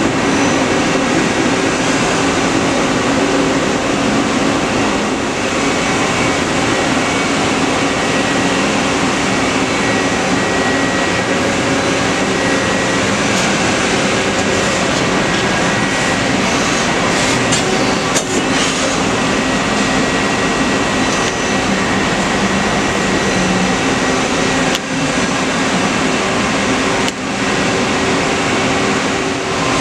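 Mori Seiki SL-250B CNC lathe running under power: a steady machine hum with a few steady tones over even noise, and a few brief clicks.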